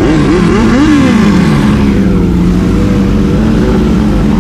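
Big-capacity superbike engines idling together; one is blipped a couple of times in the first second and a half, its pitch rising and then falling back, before they settle into a steady idle.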